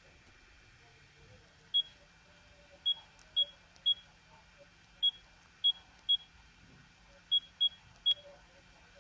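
Sagem my411X mobile phone keypad tones: about ten short beeps, all at the same high pitch, at uneven intervals, one per key press while stepping through the phone's menus.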